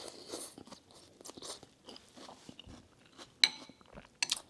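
Close-up chewing and mouth sounds of someone eating, with many small clicks, one sharp click about three and a half seconds in and a few more near the end.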